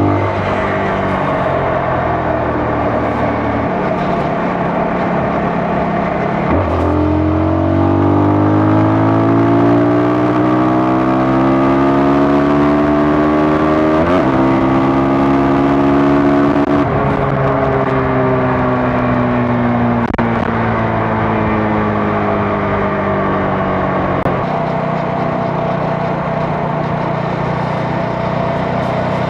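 CFMoto 250NK single-cylinder engine pulling through the gears. The revs climb and drop sharply with an upshift about a quarter of the way in and again around halfway, then fall away as the bike slows, and run steadier near the end, with wind and road noise underneath.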